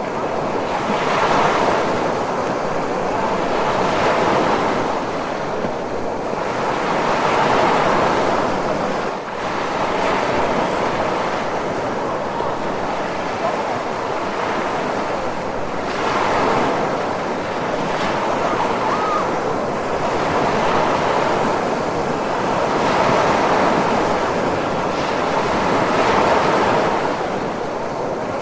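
Ocean surf: waves breaking and washing in continuously, swelling and easing every few seconds.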